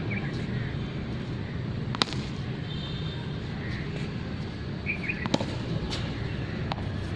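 Sharp knocks of a cricket bat striking a ball: one loud crack about two seconds in, then a few fainter ones near the end, over a steady outdoor background hum with a few short bird chirps.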